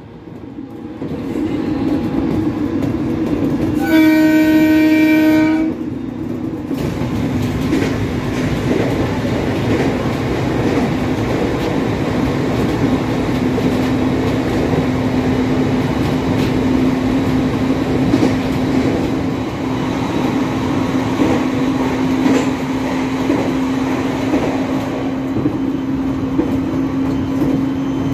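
An Aoimori Railway 701 series electric train running, heard from inside the driver's cab: steady rail and running noise with a constant low hum. About four seconds in, the train's horn sounds once for about a second and a half.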